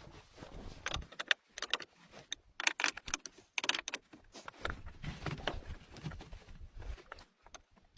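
Irregular clinks, rattles and knocks with quieter gaps between them; no engine is running.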